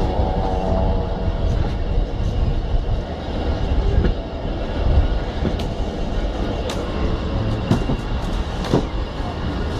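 Train running on its rails: a steady low rumble, with several sharp metallic clicks in the second half.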